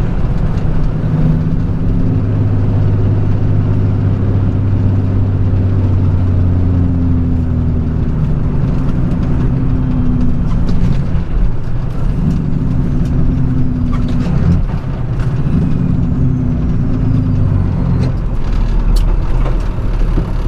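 Straight truck's diesel engine running, heard from inside the cab while the truck slows off the exit and pulls in. Its steady low hum changes pitch and drops away several times in the second half, with a few sharp clicks and knocks near the end.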